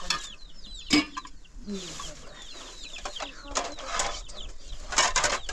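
Chickens clucking and giving short falling peeps, with a sharp knock about a second in and louder bursts of noise near the end.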